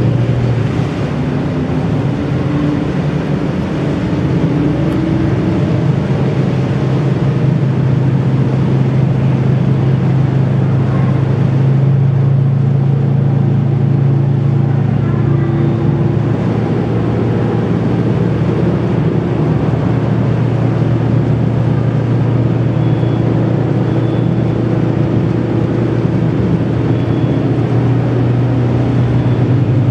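Double-deck ferry's diesel engines running under way with a steady, deep drone.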